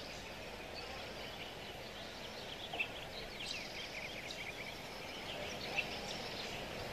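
Birds chirping and trilling over a faint steady hiss, with a quick run of short repeated notes about three seconds in.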